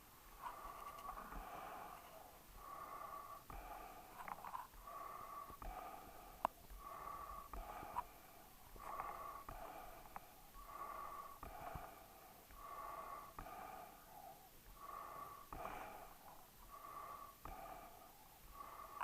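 A dog breathing noisily in a steady rhythm, about one breath a second, each breath with a pitched, wheezy tone. There are two sharp clicks in the middle.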